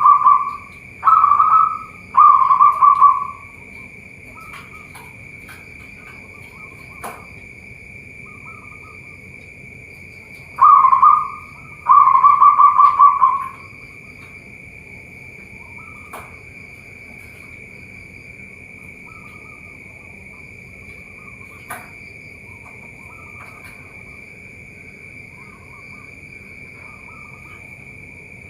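Zebra dove (perkutut) cooing: two bouts of its rolling coo, one at the start and another about ten seconds in, each a short note followed by a longer phrase.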